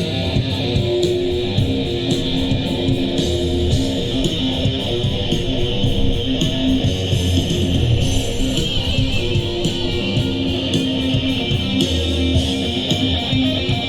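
Live rock band playing: strummed electric guitar over bass and drums, steady and loud.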